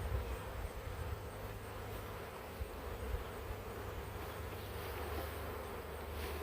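Swarm of honey bees buzzing in a steady hum, over a low rumble.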